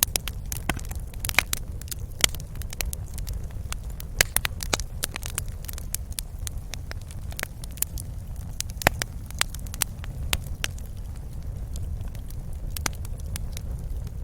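Wood fire in a fireplace crackling, with irregular sharp pops and snaps, thicker in the first few seconds and sparser later, over a steady low rumble of the burning.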